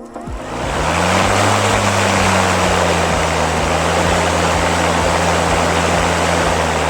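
Parkside PPRMA 40-Li A1 cordless lawn mower's electric motor and blade spinning up, the hum rising in pitch over about a second, then running at a steady speed with a loud whir of rushing air.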